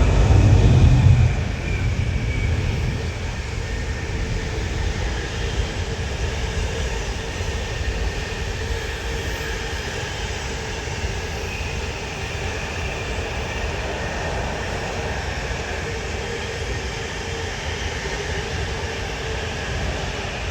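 A Class 66 diesel freight locomotive, with its two-stroke V12 EMD engine, passes through. Its rumble is loudest in the first second or so and is followed by a steady rumble of freight wagons rolling past.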